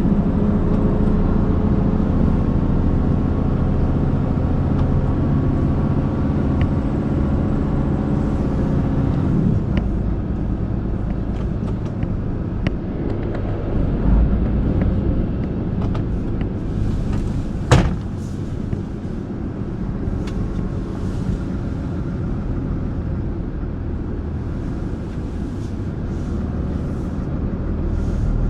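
Heavy truck on the move, heard from inside the cab: a steady engine drone over road rumble. About ten seconds in the engine's steady note drops away, leaving mostly rumble, and a single sharp click comes a little past halfway.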